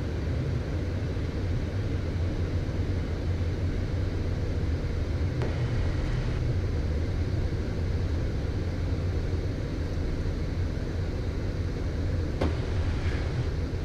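Steady low rumble and hiss of a Premier I business jet's cockpit in the climb: engine and airflow noise, with two faint clicks.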